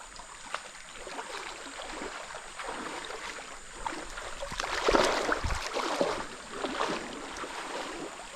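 Water splashing and sloshing irregularly in a river pool, with a louder splash about five seconds in.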